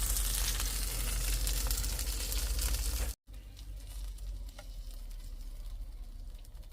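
Food sizzling as it fries in a pan, a steady crackle. About three seconds in the sound cuts off abruptly and gives way to a quieter hiss.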